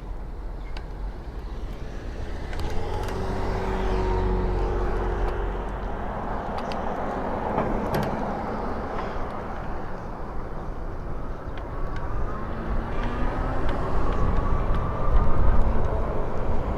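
Street traffic and a low wind rumble heard while riding along a road. A pitched motor tone sounds about three seconds in, and another rises in pitch and grows louder near the end.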